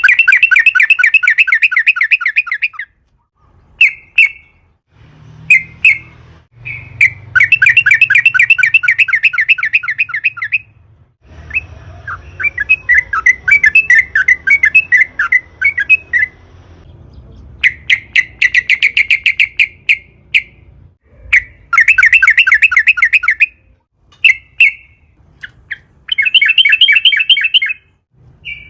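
Yellow-vented bulbul singing vigorously: repeated long, very fast rolling trills of a couple of seconds each, broken by short single notes and a softer, quicker chattering passage in the middle.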